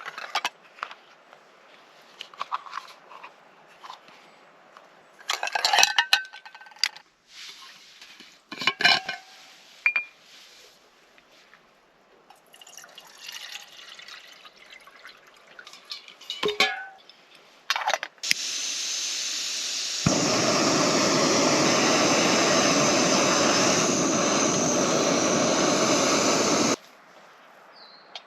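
Metal camp cookware clinking and being handled while coffee is made. Then comes a loud, steady rushing hiss lasting about eight seconds, which starts suddenly and cuts off abruptly.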